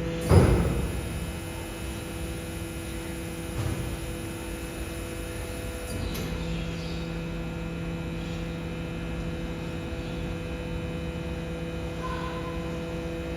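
BYD electric garbage truck's compactor running with a steady electric hum, with one loud crack just after the start.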